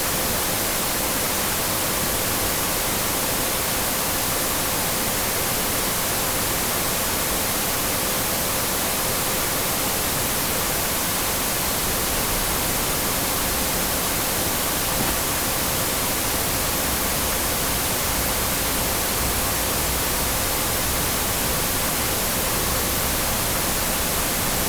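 Steady white-noise static hiss that never changes, with a faint steady tone underneath.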